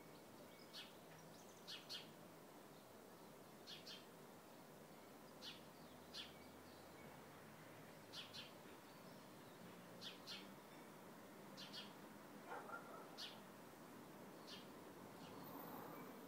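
Faint bird chirps: short high calls, often in quick pairs, repeating every second or two over quiet background.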